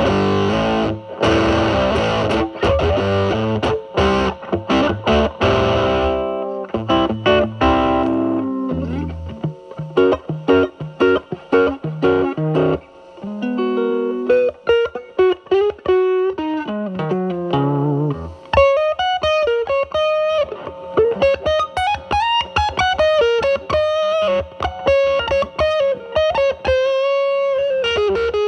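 Electric guitar, a Telecaster, played through a Mosrite Fuzzrite clone fuzz pedal (2N2369 silicon transistor) set at 4, into a Marshall Valvestate amp's drive channel. Fuzzy strummed chords give way about eight seconds in to single-note lead lines with bends, then long held notes with vibrato.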